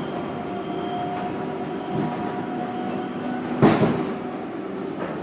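New York City subway car running on the tracks, heard from inside: a steady rumble with a faint held whine, and one sharp clunk about three and a half seconds in, the loudest moment.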